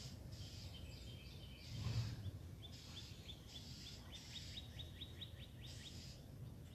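A songbird singing a fast, quickening series of repeated down-slurred whistled notes, faint over a high hiss that pulses on and off. A dull thump comes about two seconds in.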